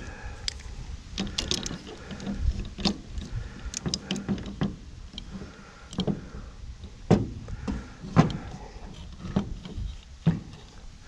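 Irregular metal clicks and knocks of hand-tool work on an angle grinder, with no motor running.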